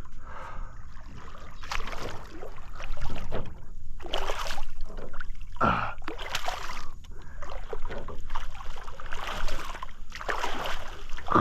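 Water splashing in irregular bursts as a big hooked redfish thrashes at the surface beside the boat while being landed.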